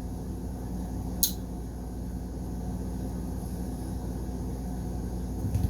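Steady low room hum, with one short, sharp click about a second in.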